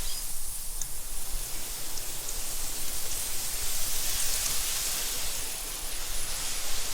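Wind blowing through tall meadow grass: a steady hiss that swells and eases in gusts, with a low rumble underneath.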